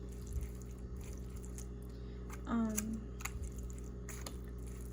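One short voiced sound with a falling pitch about two and a half seconds in, over a steady low hum and a few faint clicks.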